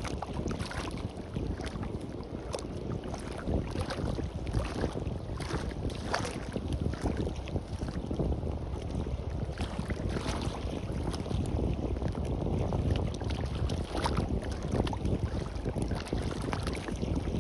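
Sea washing on the beach, a continuous noisy wash with many small irregular splashes and fizzes, over the low rumble of wind buffeting the microphone.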